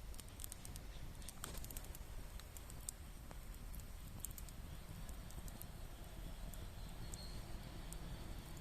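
Faint, scattered sharp clicks and ticks over a low, steady rumble.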